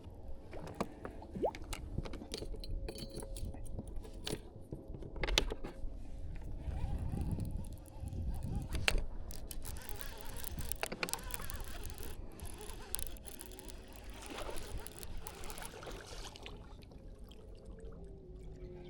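Water splashing and trickling, with many scattered sharp knocks and clicks, busiest in the middle of the stretch.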